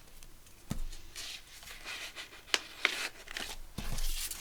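Hands handling small craft items on a table: a few sharp clicks and knocks with soft paper rustling in between.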